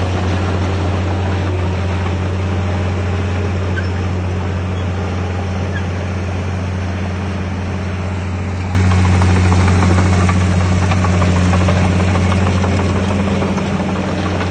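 Heavy earthmoving machinery's diesel engine running steadily with a deep, even hum. About nine seconds in, the sound jumps abruptly louder and stays there.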